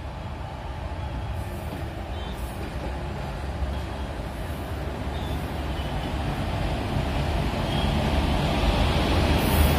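WAG-7 electric locomotive and its passenger coaches approaching and passing close by: a steady rumble of the train on the track that grows steadily louder as it comes alongside.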